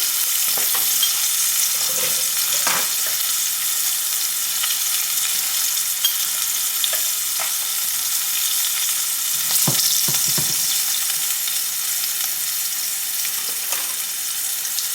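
Asparagus frying in hot oil in a frying pan: a steady sizzle, with a few light knocks about three seconds in and again near the middle.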